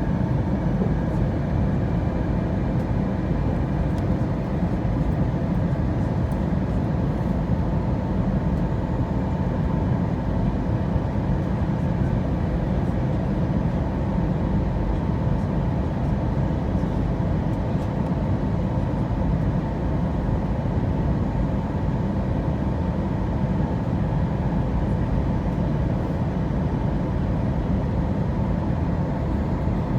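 Steady drone of jet engines and rushing air inside an airliner during its descent to land, with a faint steady whine above it.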